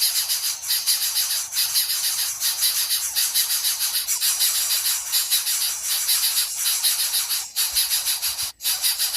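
A dense insect chorus: a steady, high, shrill buzzing with a fast pulse, broken by two brief dropouts near the end.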